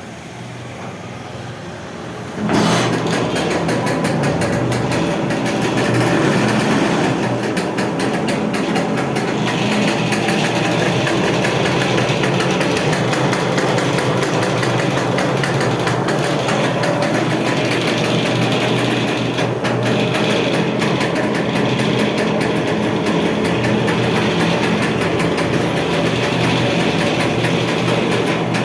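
Two-stroke single-cylinder engine of a 1979 Lambretta scooter comes in abruptly about two and a half seconds in, then idles steadily with a fast, even firing rhythm.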